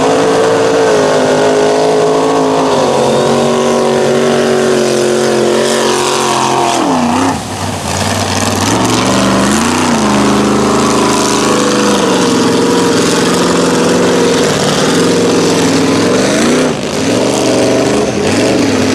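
Mud truck engine running hard at high revs during a drag pass. Its pitch dips sharply and climbs back several times, first about seven seconds in and again near the end.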